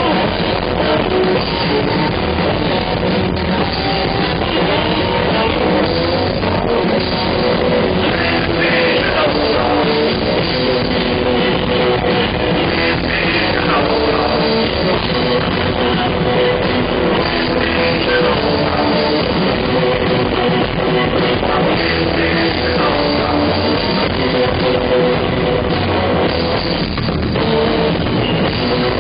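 Live blues-rock band playing loud and steady: guitar over a drum kit beat.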